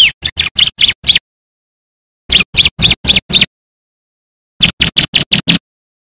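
Bar-winged prinia (ciblek) singing: three rapid bursts of about six sharp, falling chirps each, with a second's pause between bursts.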